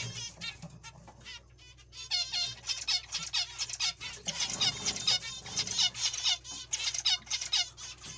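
Zebra finches calling: a fast, busy stream of short high chirps that thickens about two seconds in.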